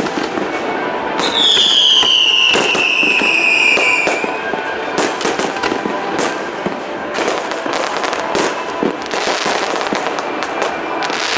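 Aerial fireworks display: a dense run of bangs and crackles from bursting shells, with one long, high whistle falling in pitch from about a second in to about four seconds in.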